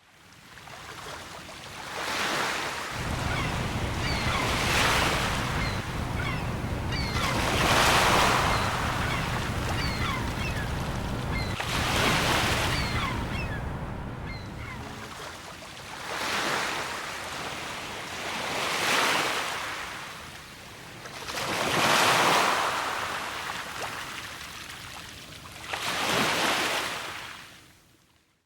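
Sea waves breaking and washing in, one swell about every three to four seconds, over a low wind rumble in the first half. Faint short seagull cries come through among the waves during the first half.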